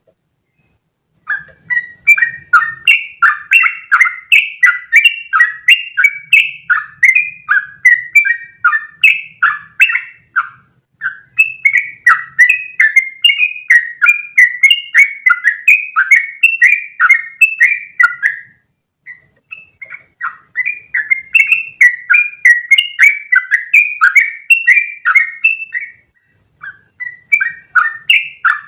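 Yellow-vented bulbul (trucukan) singing long, fast runs of loud, bubbly notes in the 'ropel' style. The song starts about a second in and breaks off briefly three times.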